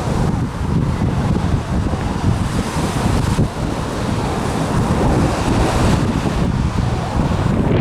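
Strong gusting wind buffeting the microphone: a loud, low rushing noise that swells and drops with the gusts.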